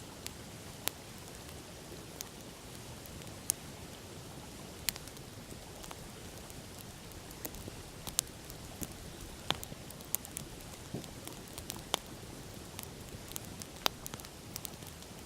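Open wood fire crackling, with sharp, irregular pops of burning wood over a steady rush of river water.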